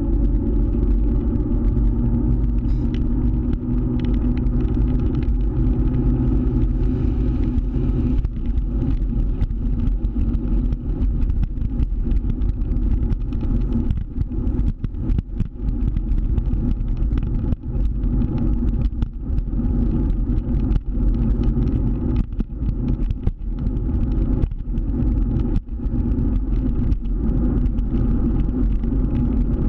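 Motor scooter engine running steadily while riding. From about eight seconds in it is broken by frequent short knocks.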